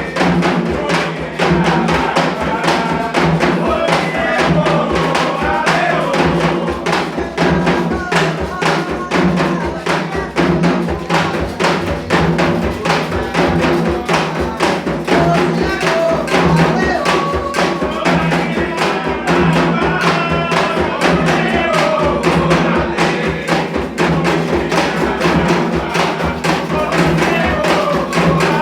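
Candomblé ceremonial music: a fast, steady drum rhythm with voices singing over it.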